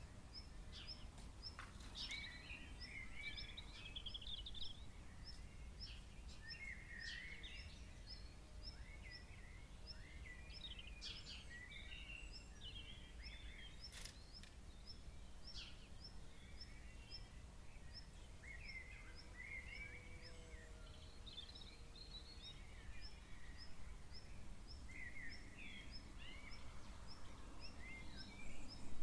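Birds calling at night: a jumble of short, warbling chirps and twitters, over a steady series of high, short ticks repeating about two or three times a second and a low background rumble.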